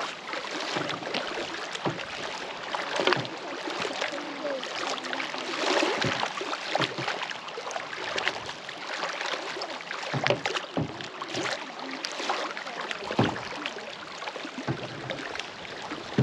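Canoe being paddled across a lake: paddle strokes dipping and splashing every second or two over a steady wash of moving water.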